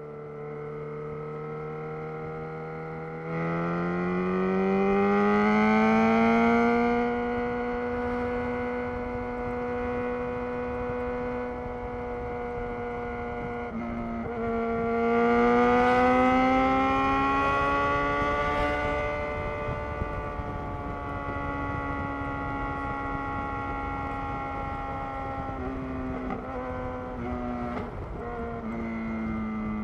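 2011 Yamaha XJ6's 600 cc inline-four running through a loud Black Widow full exhaust under way. It pulls hard twice with rising pitch, a few seconds in and again at about the halfway point, and cruises steadily in between. After a brief dip it eases off, with falling pitch near the end.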